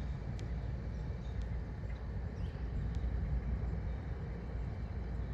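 Wind buffeting the microphone as a steady, gusting low rumble, with no thunder clap or other distinct event standing out.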